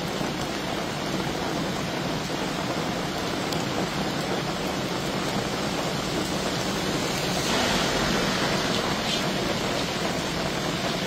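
Steady rain falling on pavement, grass and trees, an even hiss that swells a little louder for a moment about seven seconds in.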